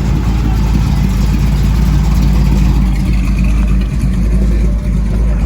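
A car engine running, a loud, steady low rumble.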